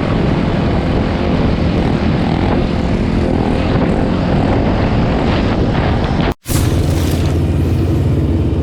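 Dirt bike engine running loud and steady, with a rough, noisy sound. It cuts out abruptly about six and a half seconds in, then carries on as a steadier low engine hum.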